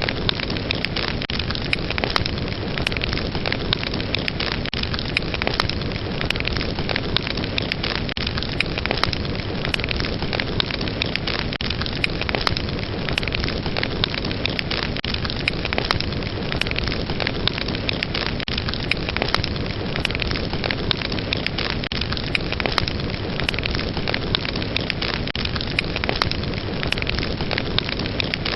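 Fire burning with a steady rushing hiss and many sharp crackles and pops throughout.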